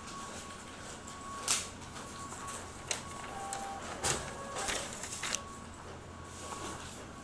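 Xerox WorkCentre 7855 copier running with a faint steady whine and a few sharp cracks. The loudest crack comes about a second and a half in, and a cluster of cracks follows around four to five seconds in. This is the loud cracking fault that the uploader cured by reseating the stiff toner/drum cartridges, or replacing them.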